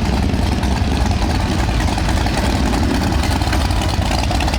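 Motorcycle engines idling and running slowly in street traffic, a steady low engine sound.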